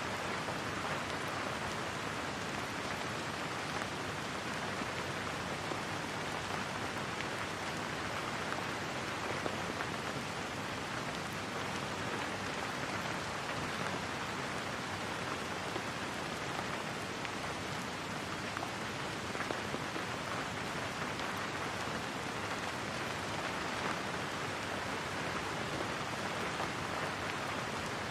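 Steady rain falling, an even patter of drops on a surface with no let-up.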